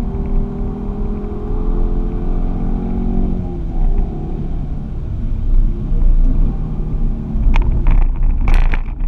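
Ford Focus ST's engine heard from inside the cabin, running steadily with its pitch falling gently over the first few seconds and then easing off, over a heavy low rumble of road and wind noise. Near the end comes a quick series of sharp knocks.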